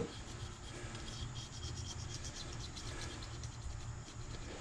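Razor blade scraping old gasket material off a Yamaha Warrior 350 cylinder head's mating surface: a faint, rapid, fine scratching.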